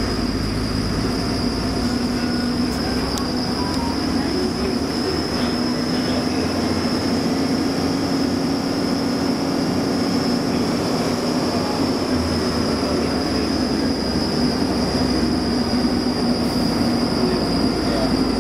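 Passenger train running at steady speed, heard from inside the carriage: a continuous rumble with a steady high-pitched whine and a low hum.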